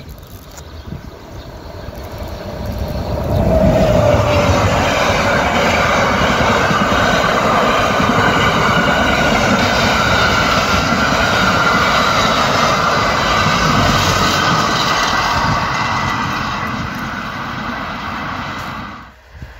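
Freight train passing at speed close by, its wagons' wheels rolling and clattering on the rails. The sound swells about three and a half seconds in with a brief falling tone, stays loud and steady, then eases and cuts off abruptly near the end.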